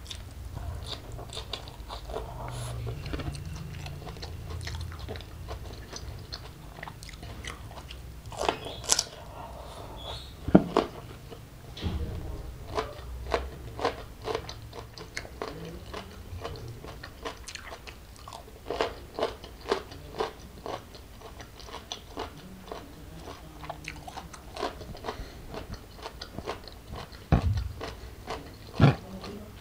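A person chewing a mouthful of raw leafy greens with sambal close to the microphone: wet crunches and mouth clicks at irregular intervals, with a few louder crunches about ten seconds in and again near the end.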